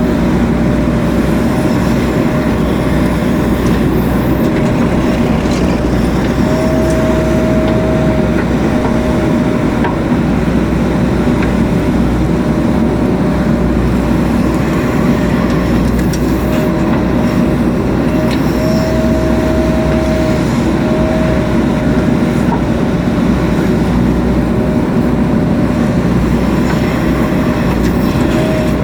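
JCB 3DX Super backhoe loader's diesel engine running steadily under working load, with a steady whine that comes and goes several times as the hydraulics work.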